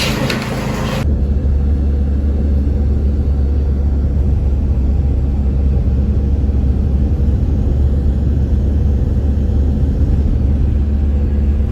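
Steady low road rumble inside a moving car, starting abruptly about a second in.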